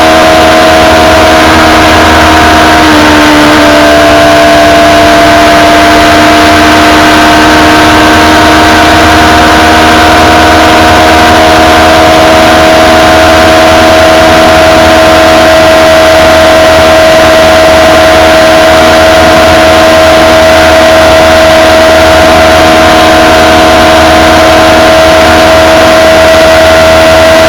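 Honda CBF1000's inline-four engine with stock exhaust running at high revs at high speed, its steady tone dipping about three seconds in and then creeping slowly upward. Heavy wind rush on the camera microphone throughout.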